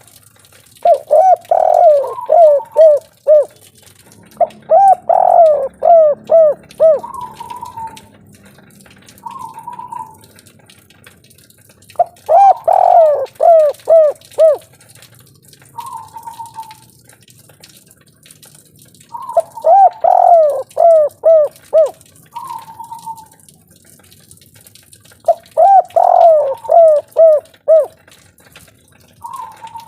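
Spotted dove (tekukur/derkuku) singing the 'kuk 3' song: five loud cooing phrases, each a quick run of falling notes lasting about two seconds, with short single coos between the phrases.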